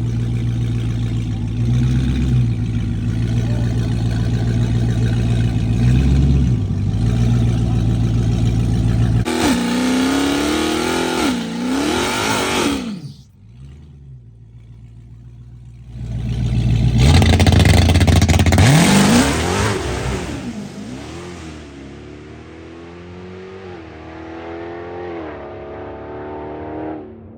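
Car engine running steadily with two brief blips of the throttle, then revving hard with its pitch swinging up and down. The sound cuts off suddenly and comes back loud, then fades as the engine pulls away, its pitch climbing in steps through the gears.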